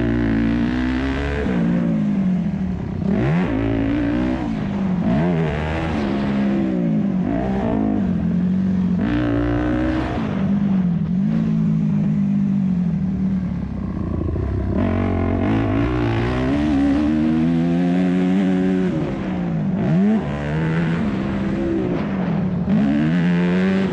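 2001 Yamaha YZ250F four-stroke single-cylinder motocross engine under hard riding, its pitch climbing and dropping again every second or two as the throttle is opened and chopped.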